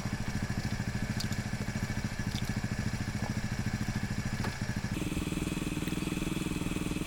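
A vehicle engine idling steadily, its note changing about five seconds in.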